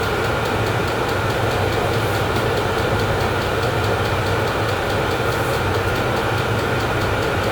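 VEVOR diesel air heater running steadily, its burner and blower giving an even drone with a low hum. The heater has warmed up and is blowing warm air.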